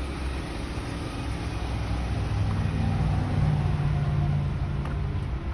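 A car engine running with a low hum that grows louder about two seconds in, then eases off near the end.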